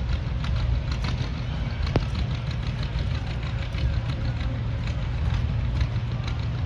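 Steady low rumble of an idling engine, with a rapid, irregular patter of rain ticking over it and one sharp click about two seconds in.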